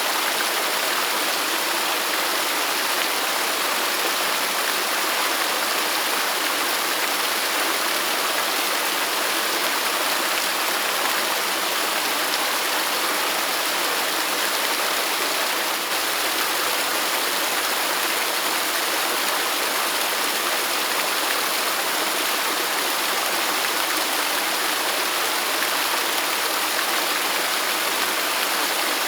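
Waterfall: falling water making a steady, even rushing hiss, mostly high with little low rumble.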